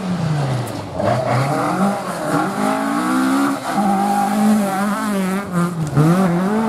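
Rally car engine revving hard, its pitch climbing and dropping several times with gear changes and lifts off the throttle, and a quick warbling run of revs near the end.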